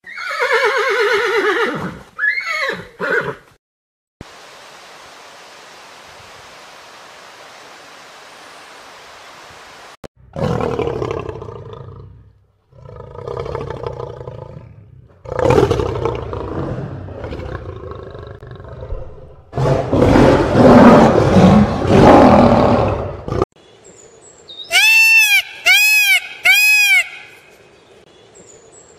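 A horse whinnying, a descending call in the first three seconds. After a stretch of steady hiss, a lion roars and grunts in long, loud, pulsing calls. Near the end a peacock gives a quick run of short, high, arched calls, about two a second.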